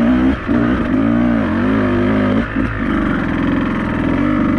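Beta 200RR two-stroke enduro motorcycle engine revving up and down under changing throttle while riding a trail, with brief throttle-offs about half a second in and again around the middle.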